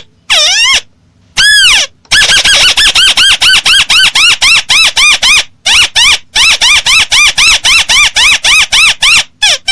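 Crake call played as a bird-catching lure: after a few separate notes, including one long arched note, comes a fast, even series of short arched notes at about four a second.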